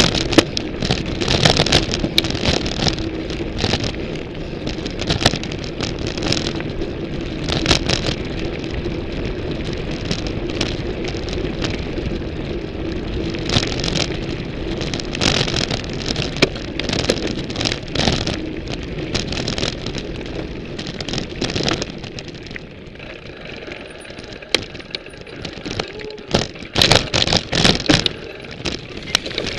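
Ibis Mojo HD 140 mountain bike being ridden, picked up through its frame: tyres rolling and the chain and frame rattling, with frequent sharp knocks from bumps in the trail. A steady hum runs through the first half, and the knocks come thicker and louder near the end.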